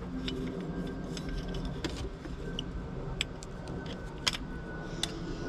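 Scattered light clicks and small metallic ticks as scrap parts are handled and sorted, over a low steady hum.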